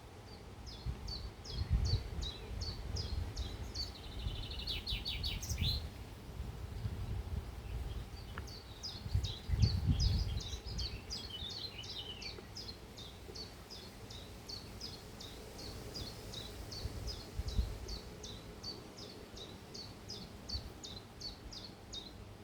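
A bird repeating one short, high chirp about twice a second in a long even series, with a brief faster trill of falling notes a few seconds in. Low rumbling on the microphone comes and goes underneath.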